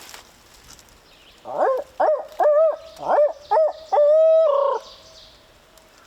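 Barred-owl style hooting: a loud series of about six rising hoots, the last drawn out into a long held note near the end.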